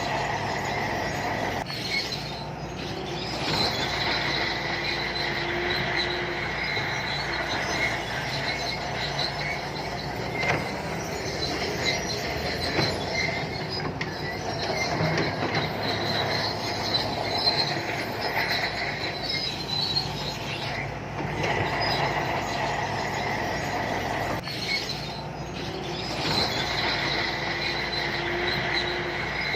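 Shantui crawler bulldozer working, its engine running under load and its steel tracks giving a high, steady squeal that fades and returns several times.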